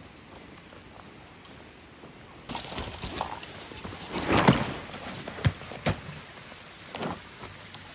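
A stream running, its rush starting abruptly about two and a half seconds in, with several knocks and rustles over it, the loudest a couple of seconds later.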